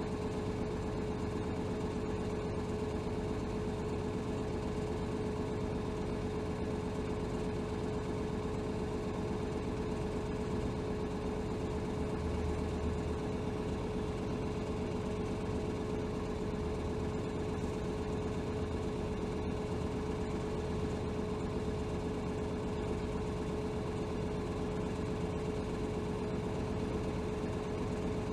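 Hino Rainbow HR city bus heard from inside the cabin, its diesel engine running steadily with a constant whine that holds one pitch throughout.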